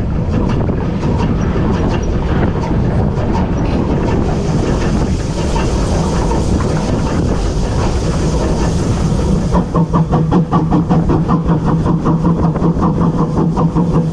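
Railway locomotive on the move, with a continuous rhythmic clatter. A hiss rises over it from about four to nine and a half seconds in, then gives way to a steady hum with a quick, even beat.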